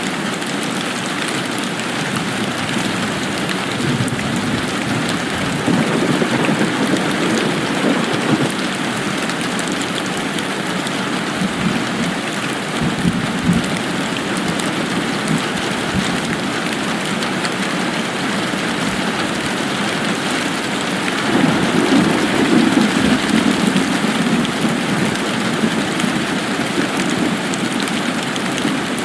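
Steady rainfall, an even hiss of drops. A low rumble swells up twice underneath it, about six seconds in and again about twenty-one seconds in.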